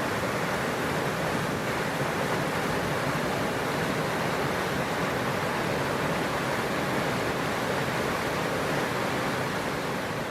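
Steady rush of falling water from a waterfall, an even wash of noise that begins to fade near the end.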